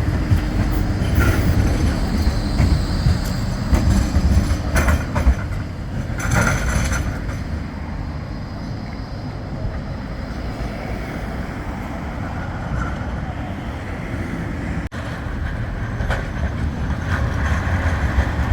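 Bombardier Flexity 2 tram running on the tramway: a steady low rumble, with a run of clattering knocks and a brief screech of wheels in the first several seconds, then a steadier rumble.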